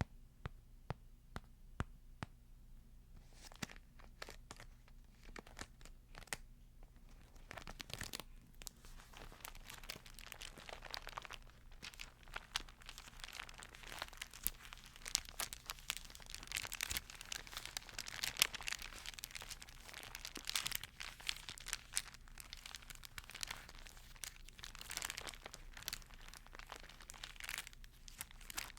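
Thin Bible pages being rustled and crinkled close to the microphone. A few sharp light clicks come first, then from about three seconds in the crinkling turns dense and continuous.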